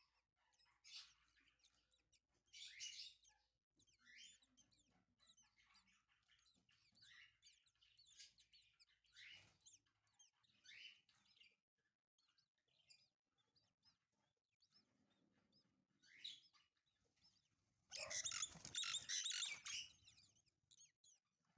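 Lovebird chicks giving faint, short, repeated chirps, the begging calls of chicks at feeding time. About two-thirds of the way in, a louder burst of dense, rapid chirping lasts about two seconds.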